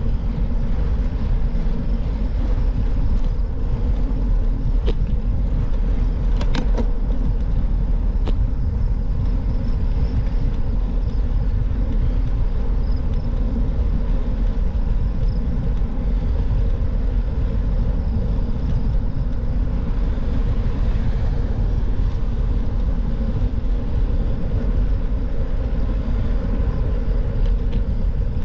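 Steady low rumble of wind and tyre road noise while riding a bicycle, with a few faint clicks in the first several seconds.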